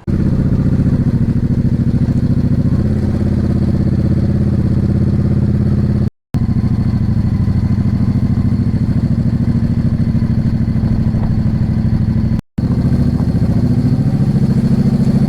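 Yamaha V Star 650's air-cooled V-twin engine running steadily under way, with a slight change in engine note about three seconds in. The sound cuts out briefly twice.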